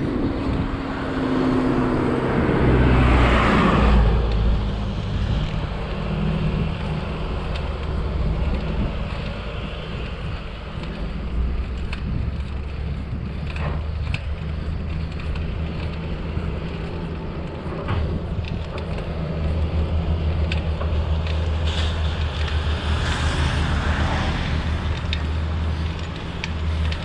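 Road traffic and wind noise heard from a moving bicycle: a steady low rumble, with a motor vehicle passing about three seconds in and another near the end.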